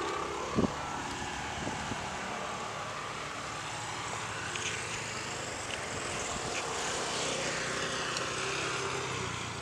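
Steady vehicle noise, a continuous rumble and hiss that swells slightly late on, with a short knock about half a second in.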